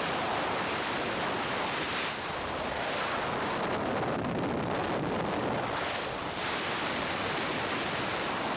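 A steady, even rushing noise, like wind or moving water, with slight surges in its hiss a couple of times.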